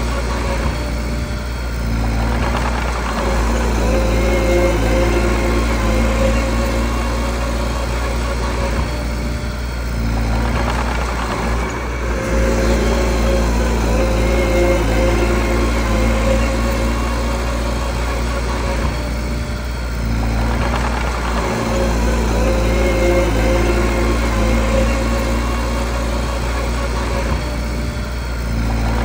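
Mini bulldozer's diesel engine running under load. Its sound swells and eases in a repeating cycle about every nine seconds.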